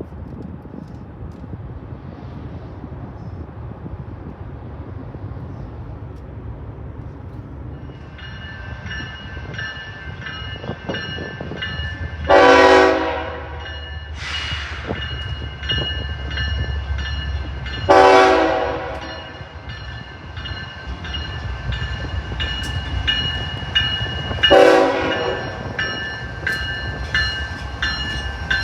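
Train horn sounding four blasts, the first, third and fourth about a second long and the second shorter, as a train approaches with a low rumble. A steady ringing with regular ticks starts about eight seconds in and carries on under the blasts.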